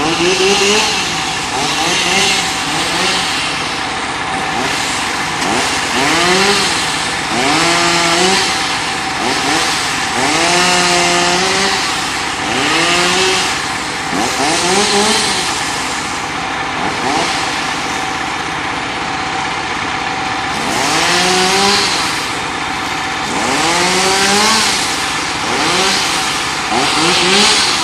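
An engine revving up and easing off over and over, a rise in pitch every two seconds or so, over a steady hum.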